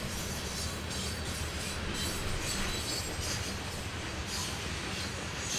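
Train rolling on rails: a steady low rumble of wheels, with brief higher squeals or rattles coming back about once a second.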